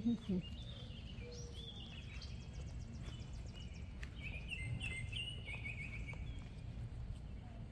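Songbirds chirping and singing in short phrases, with a quick trill about five seconds in, over a steady low rumble.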